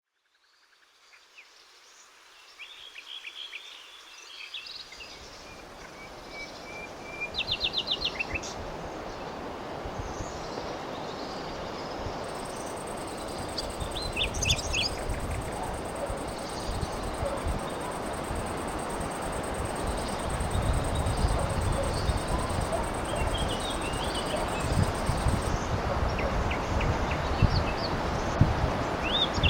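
Birds singing and calling over a steady rushing noise with low buffeting, fading in from silence. The loudest bird phrase is a quick run of repeated notes about eight seconds in.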